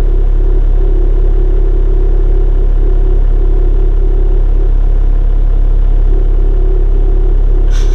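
Toyota Land Cruiser Troop Carrier's engine running with a loud, steady low rumble.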